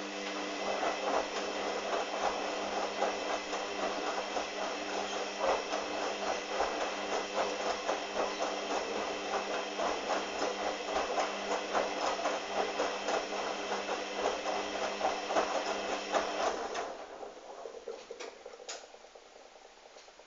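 Hoover washing machine's motor turning the drum, a steady hum under a constant rattle of knocks, for about seventeen seconds before it stops and runs down.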